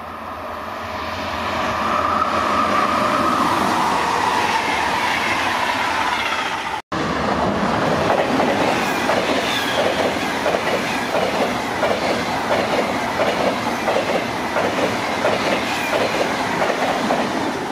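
An electric train approaching and growing louder; then, after an abrupt cut, a Deutsche Bahn ICE high-speed train passing close, its wheels clacking in a quick, even rhythm over the track.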